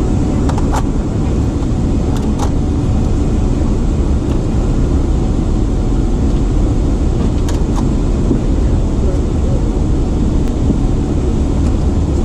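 Steady low rumble of an airliner cabin, the jet engines running evenly with no spool-up, with a few faint clicks.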